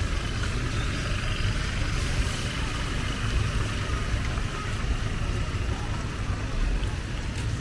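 Street ambience in the rain: a steady hiss of rain and wet road noise over the low rumble of passing traffic.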